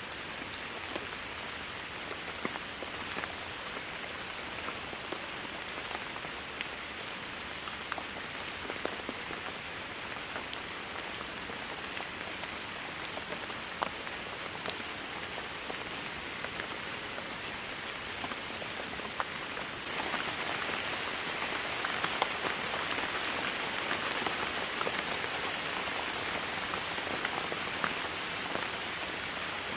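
Steady rainfall: an even hiss of rain with scattered sharper drops ticking through it. The rain turns suddenly heavier and louder about two-thirds of the way through.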